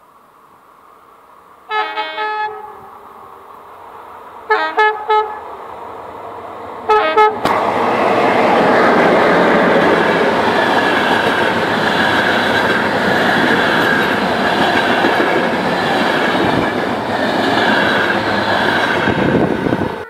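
An electric locomotive sounds its two-tone horn in three groups of short blasts as it approaches. About seven seconds in the locomotive-hauled passenger train reaches the microphone and passes at speed, loud and steady, with its wheels clattering over the rails.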